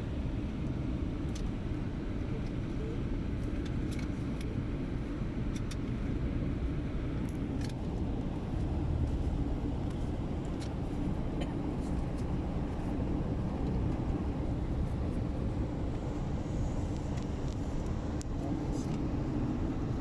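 Car driving, a steady low rumble of road and engine noise with a few faint ticks.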